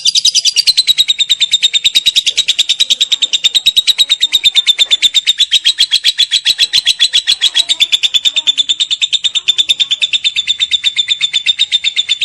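Lovebird giving its long 'ngekek' call: one unbroken, rapid chattering trill of high-pitched notes, about ten a second, held at an even pitch throughout.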